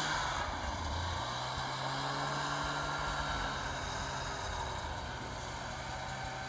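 A vehicle engine running at a steady speed under a continuous hiss, fading slightly towards the end.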